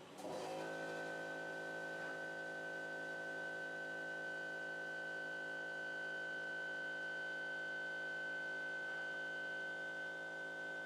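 Stepper motors of a CNC pen-drawing machine whining steadily as it runs, starting suddenly just after the start with a strong high steady tone over a stack of lower ones.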